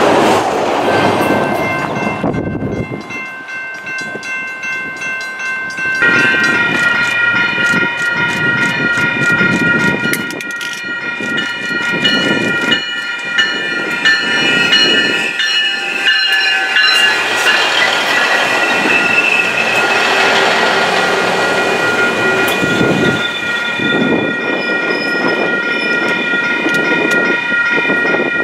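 SMART Nippon Sharyo diesel multiple unit trains running by, with wheel and engine rumble and rail clicks. Early on there is a loud close pass that drops away after about two seconds. From about a quarter of the way in, a long signal of several high tones sounds over the approaching train, dipping in pitch around the middle.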